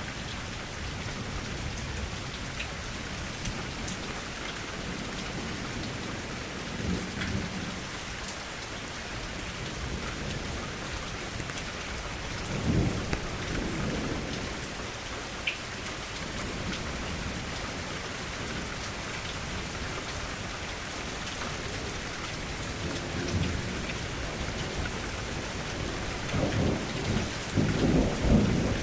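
Steady rainfall with low rolls of thunder rumbling several times over it, the loudest near the end.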